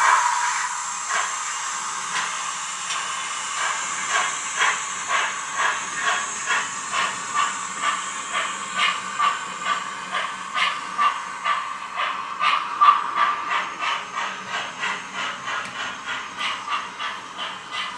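Digital steam sound of a GWR 14xx tank engine (YouChoos sound on a Zimo MX648F decoder) from a small Brick 8 speaker in a model locomotive's coal bunker. It opens with a hiss of steam, then gives steady exhaust chuffs about two a second as the loco runs. The chuffs grow fainter in the last few seconds.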